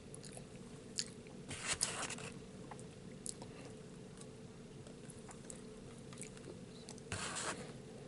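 A person chewing and biting food, faint, with a few short louder bursts of mouth and eating noise about a second in, just before two seconds and near the end, over a faint steady hum.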